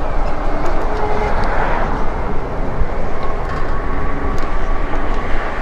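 Strong wind buffeting the microphone on a moving e-bike, a loud, steady rumbling rush; a faint steady tone joins about three seconds in.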